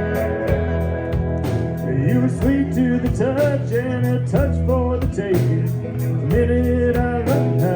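A band playing a blues-rock number: a steady drum beat, a bass line and guitar, with a melody line that bends in pitch through the middle.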